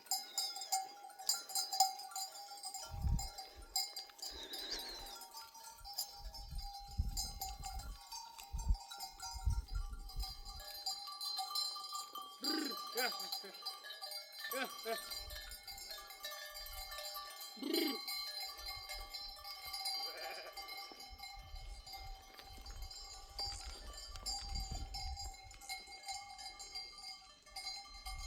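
Bells worn by a moving flock of sheep clanking and ringing continuously, with a few sheep bleats in the second half.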